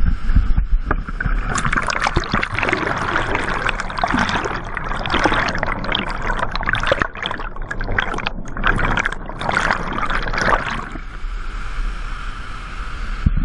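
Rushing water splashing and churning close to the microphone over the steady low roar of a waterfall's plunge pool; the splashing eases after about ten seconds, leaving the steady rush of the falls.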